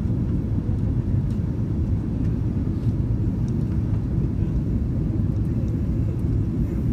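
Airbus A330-202 in flight, a steady low rumble of engines and airflow.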